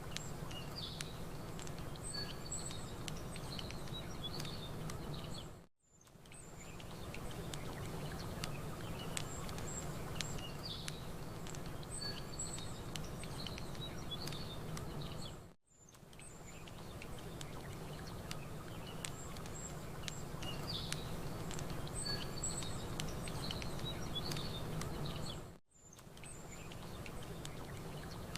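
Campfire crackling with small birds chirping over a steady wash of gentle lake water. The mix is a repeating loop that drops out briefly three times, about ten seconds apart.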